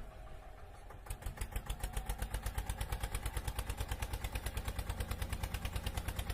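Tractor engine running with a steady putt-putt of about nine beats a second, growing louder and sharper about a second in.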